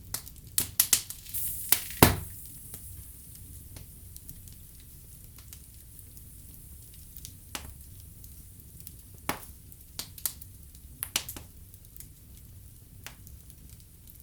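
Wood fire burning in a fireplace: a low steady rumble with sharp crackles and pops. A quick cluster of pops comes in the first two seconds, the loudest about two seconds in, then scattered single pops.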